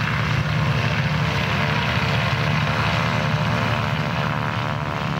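Radial engine of a Stearman biplane running steadily, a continuous propeller drone with an even stack of engine tones.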